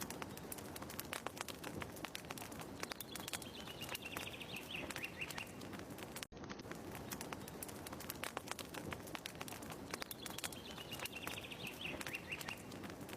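Fire crackling with dense, irregular pops, with a bird's short falling trill heard twice. It is a looped ambience track that cuts out for an instant and restarts about midway.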